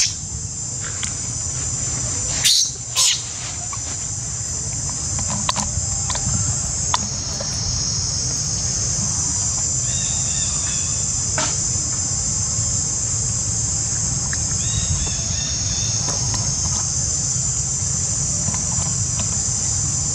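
Steady high-pitched chorus of insects, with a low rumble underneath. Two short, sharp sounds come about two and a half and three seconds in, and faint chirps are heard around the middle and again later.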